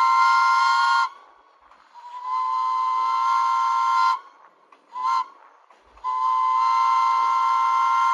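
Subway train horn blowing several blasts of a multi-tone chord: one ending about a second in, a long blast, a short toot and a final long blast, in the long-long-short-long pattern.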